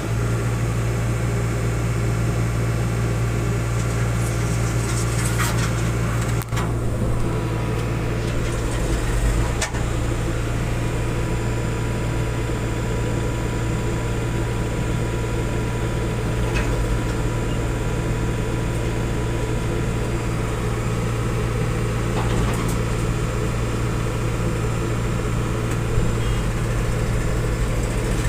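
Tractor engine running steadily at a low, even drone, with a couple of brief knocks about six and ten seconds in.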